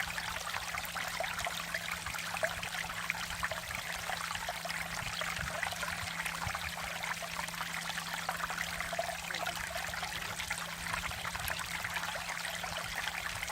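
Mountain valley stream flowing steadily, a dense rush of water with many small splashes and trickles.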